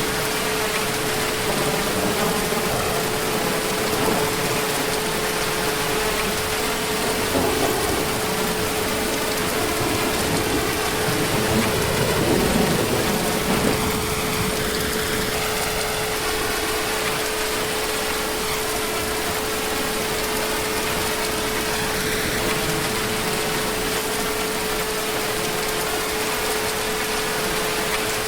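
Heavy, steady rain, with a low rumble of distant thunder about halfway through. A steady hum runs underneath.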